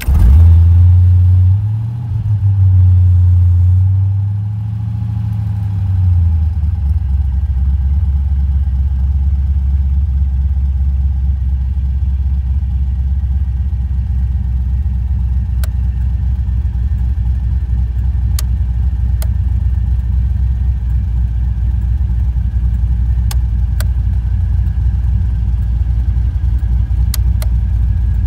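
Chevrolet Monte Carlo SS's V8 engine just after starting. It runs at a higher fast idle for the first six seconds or so, then settles into a steady lower idle.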